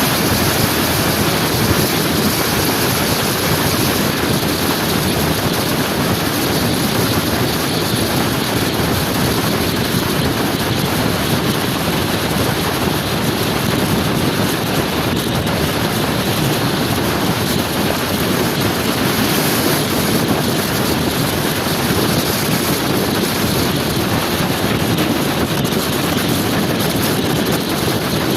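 Steady rush of wind on the microphone with road and engine noise from a motor scooter being ridden at speed.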